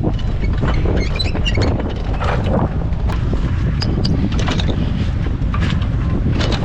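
Strong wind buffeting the microphone aboard a sailboat under way in rough conditions, a steady low rumble with scattered short clicks and knocks.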